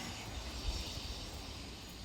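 Electric train running by: a steady low rumble and hiss with irregular low thumps, the hiss fading away.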